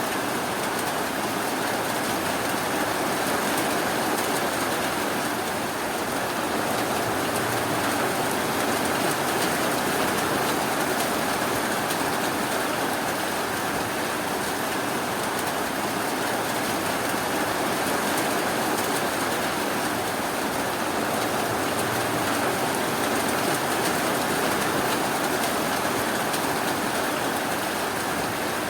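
Steady rainfall, an even continuous hiss of rain with no breaks or sudden sounds.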